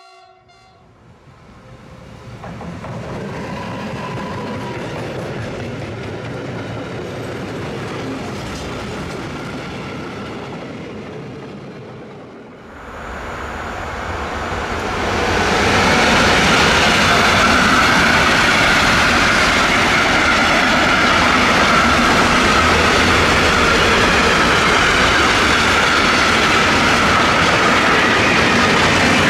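Electric freight train passing on the rails: a quieter rumble in the first half, then, after a break about twelve seconds in, the loud steady rolling and clatter of a long mixed freight train's wagons going by close.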